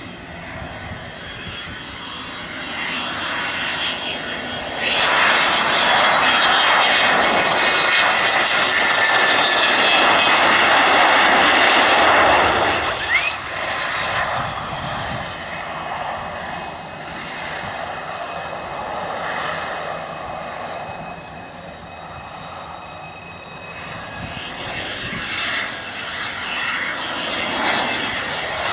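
F-16 fighter jet on approach, its turbofan whine and rumble building to a loud pass of several seconds with a high whine that falls slightly in pitch, then dropping away. Another jet's sound builds again near the end.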